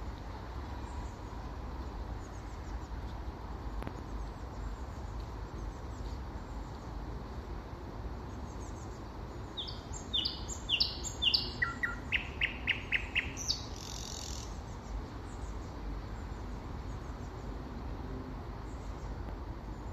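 Nightingale singing one loud phrase about ten seconds in, lasting some four seconds: a few quick high notes, then a rapid run of about seven repeated notes and a harsh rattle at the end. Other birds chirp faintly throughout over a low steady rumble.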